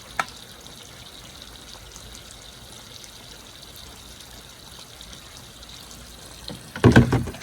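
Water trickling steadily down a backyard water slide into a pool. There is a short click just after the start, and a loud bump near the end as a toy truck lands.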